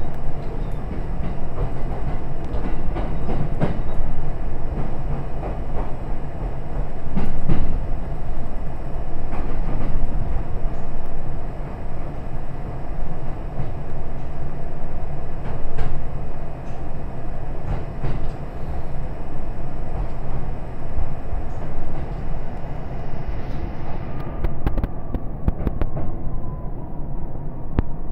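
Train running along the track, heard from inside the carriage: a steady rumble with scattered clicks of the wheels over rail joints. Near the end the rumble eases and a whine slides down in pitch as the train slows toward a station.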